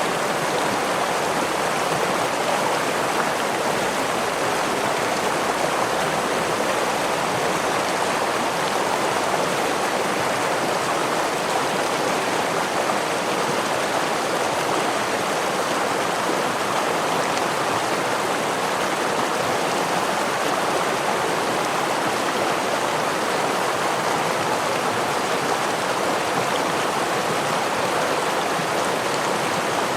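Stream water running over rocks with a small waterfall, a steady rushing and splashing that holds an even level throughout.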